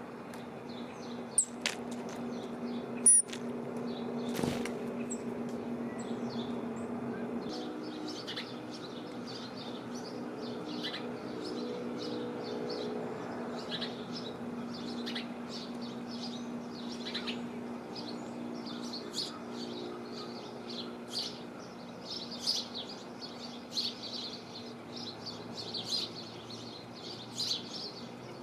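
Small birds at a feeder chirping in many short, high calls that come thicker in the second half. A steady low hum runs underneath through most of it, and a few sharp clicks sound near the start.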